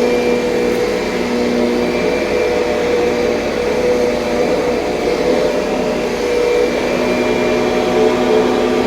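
2007 Kirby Sentria upright vacuum cleaner running steadily: a continuous motor hum with a higher whine above it, wavering slightly in level.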